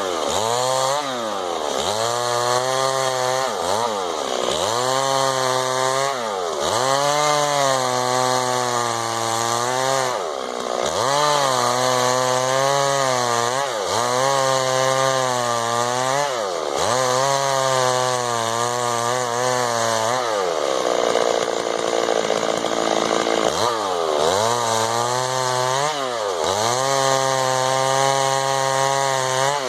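Chainsaw running, revved up and dropping back again and again, roughly every two seconds. Past the middle it holds a lower, rougher pitch for a few seconds, then the revving resumes.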